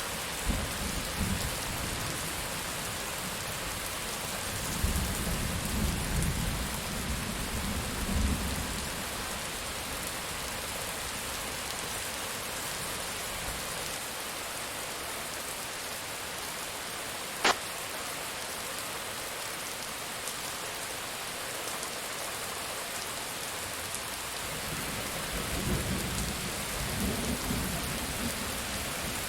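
Steady rain with low rumbles of thunder at the start, again about five to eight seconds in, and near the end. A single sharp click about halfway through is the loudest moment.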